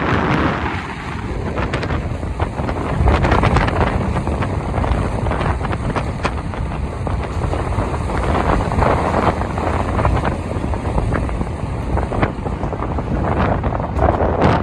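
Wind buffeting the microphone of a moving motorbike, in gusts over steady engine and road noise.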